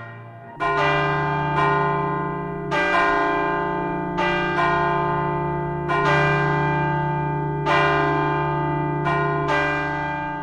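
Church bells ringing, struck about once every second or so with the tones overlapping and ringing on between strikes.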